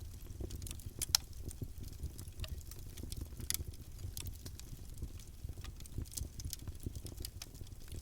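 Campfire burning: a steady low rumble of flame under irregular sharp crackles and pops from the burning wood, the loudest pop about a second in.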